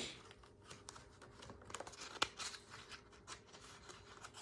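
Faint rustling of paper with a few small clicks, a picture book's pages being handled and turned. The sharpest click comes a little past two seconds in.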